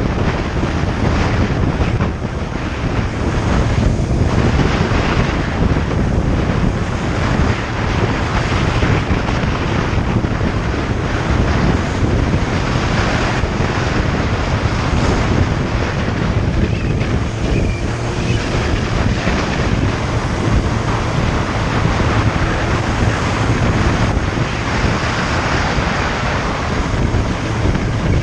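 Wind rushing and buffeting over the microphone of a moving motorcycle, with the engine and road noise running underneath.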